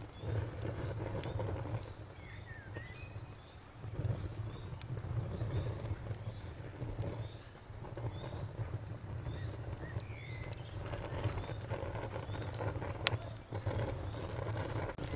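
Campfire crackling with a low, rumbling hiss and scattered sharp pops, the loudest about 13 seconds in, over crickets chirping in a rapid, even pulse.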